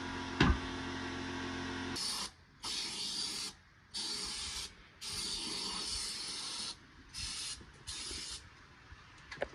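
A single sharp thump over a steady hum about half a second in, then an aerosol can spraying in a series of hissing bursts that cut off abruptly between them, as fluid is sprayed around a tire bead to seat it.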